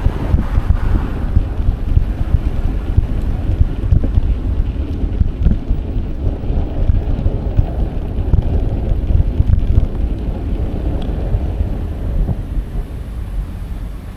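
Wind buffeting the microphone of a bike-mounted action camera while riding: a heavy, uneven low rumble that flutters throughout.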